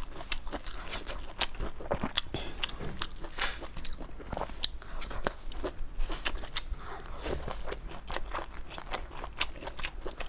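Close-miked chewing of soft food in the mouth, a dense run of quick, irregular wet clicks with no pause.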